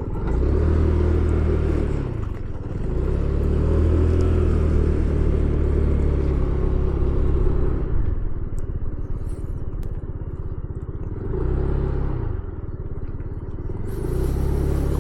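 Motorcycle engine running at low speed, its pitch rising and falling several times as the throttle is opened and closed.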